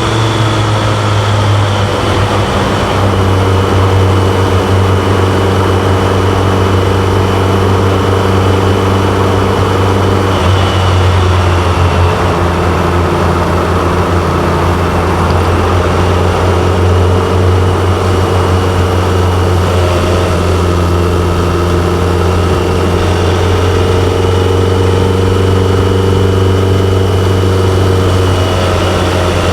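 BMW K1100LT motorcycle's inline four-cylinder engine running steadily under way, its pitch shifting slightly a few times, over a steady rush of wind and road noise.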